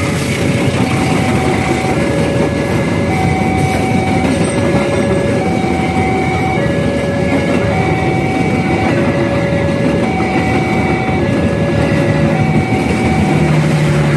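KA Ceremai passenger train running through a level crossing, its wheels clattering over the rails in a steady rumble. Over it the crossing's warning alarm sounds two tones in turn, a higher and a lower, each held about a second.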